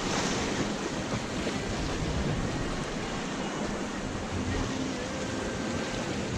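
Waves washing on the seashore with wind buffeting the microphone, a steady rushing noise.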